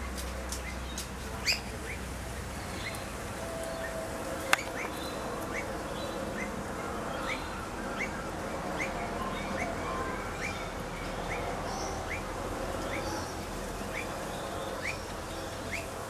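A bird giving a steady series of short, rising chirps, about two a second, with a sharp click about a second and a half in and another about four and a half seconds in.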